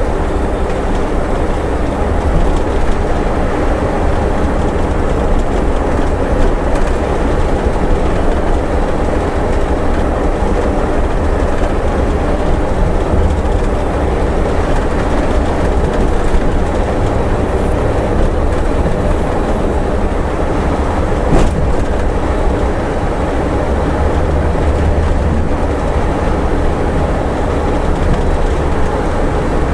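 Scania bus driving on the highway, its diesel engine and road noise a steady low rumble. There is a single brief click about two-thirds of the way through.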